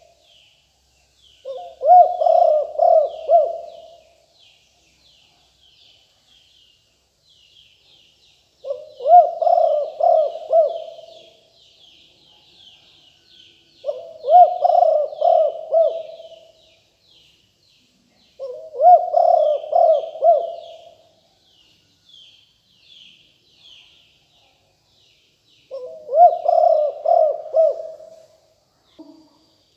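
Spotted dove cooing: five phrases of several quick, pulsed coos, each phrase lasting about two to three seconds with pauses of several seconds between. Small birds chirp rapidly and continuously in the background.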